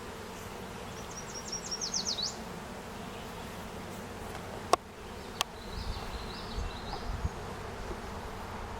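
Swarm of honeybees buzzing steadily around a hive box as they settle in. A bird chirps a quick run of falling notes about a second in, and two sharp clicks come near the middle.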